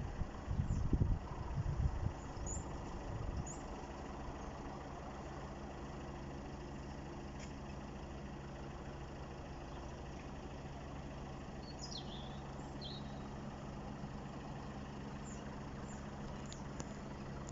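An engine idling steadily at a constant pitch, after a couple of seconds of loud low rumbling at the start.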